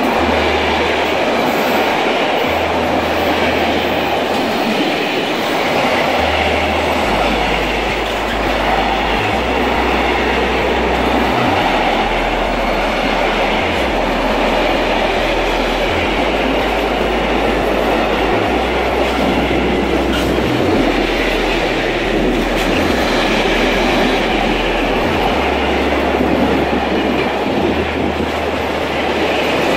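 Freight train wagons rolling past close by, covered hoppers followed by tank wagons: loud, steady noise of steel wheels running on the rails.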